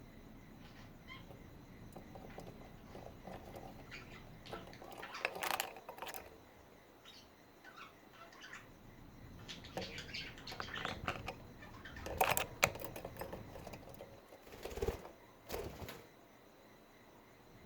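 Pet budgerigars chirping and chattering in short scattered bursts, with several sharp taps or rustles among them.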